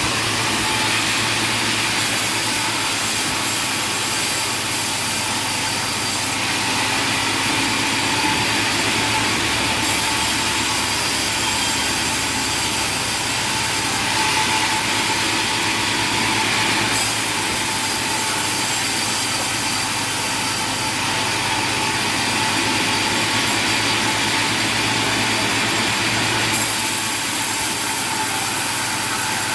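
Sawmill machinery running steadily: a continuous mechanical hum and whine with a noisy wash over it, changing a little in character every several seconds.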